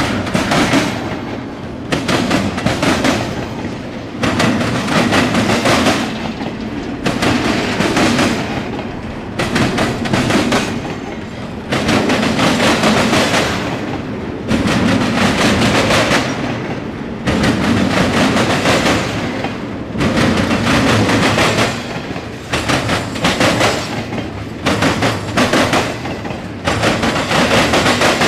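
Norfolk Southern intermodal freight train rolling past close by: double-stack container well cars and then trailer flatcars, their steel wheels clacking over the rail joints. The loud rumble swells and dips about every two seconds as the cars go by.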